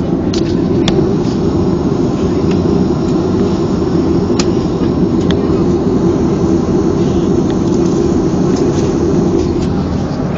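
Cabin noise inside a Boeing 737-300 on the ground after landing: a steady low rumble with a humming band that fades away near the end, and a few faint clicks.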